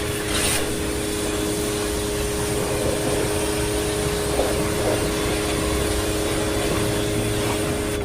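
Suzuki pressure washer running steadily, its motor humming at one pitch over the hiss of the water spray, then shutting off suddenly right at the end.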